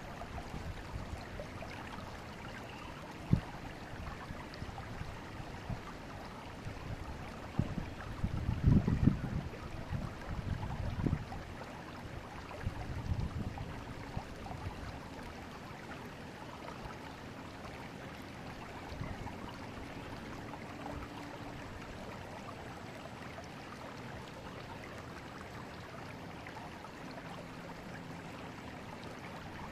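Forest river flowing steadily. A sharp click about three seconds in, and a run of louder low bumps about eight to eleven seconds in, with a few more near thirteen seconds.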